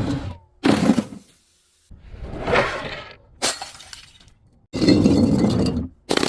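Glass shattering and crunching as bottles are broken: about five separate crashes, each cut off abruptly.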